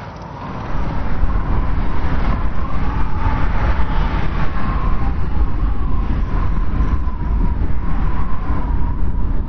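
Strong wind blowing with a deep rumble and a thin, wavering whistle. It grows louder less than a second in.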